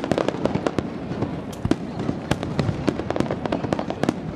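Aerial fireworks shells bursting in quick succession: many sharp bangs, several a second, overlapping one another.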